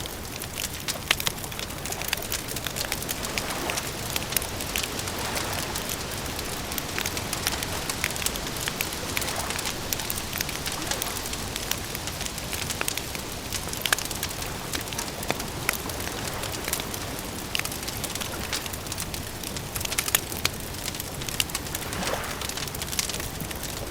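Wood fire crackling, with frequent sharp pops and snaps over a steady soft hiss.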